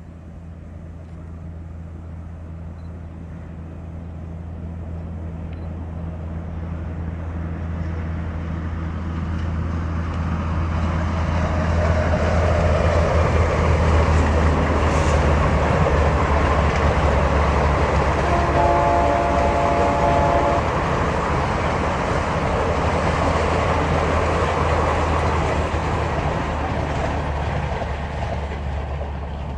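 Diesel-hauled train approaching and passing, its locomotive's engine drone and the rush of the train building over about twelve seconds, then slowly fading. The horn sounds once for about two seconds near the loudest point.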